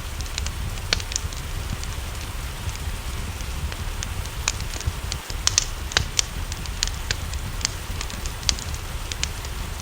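Wood fire crackling, with irregular sharp pops a second or so apart, over a steady hiss of rain and a low rumble.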